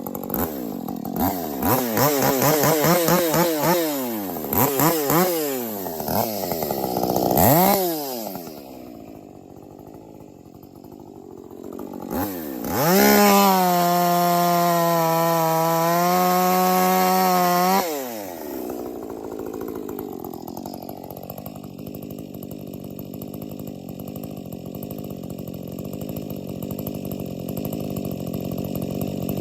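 50 cc-class two-stroke chainsaw revved up and down several times. About thirteen seconds in it is held at a steady high speed for about five seconds, then drops back to a steady idle.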